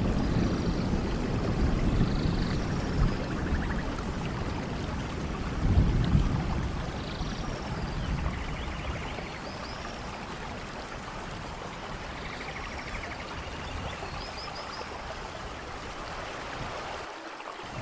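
Rainforest thunderstorm: steady heavy rain with low thunder rumbling in the first several seconds, then settling to a steadier downpour. Faint high chirps repeat above the rain.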